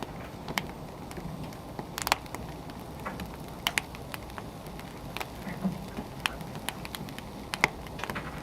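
Wood fire burning, with irregular sharp crackles and pops over a steady low rumble. One louder pop comes near the end.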